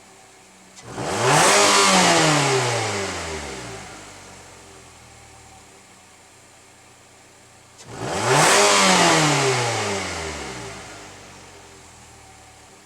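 Nissan Elgrand engine idling and blipped twice in neutral (free revving): each time the revs shoot up and then fall slowly back to idle.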